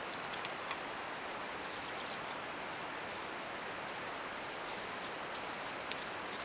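Steady, even background hiss with a few faint ticks, about half a second in and again near the end.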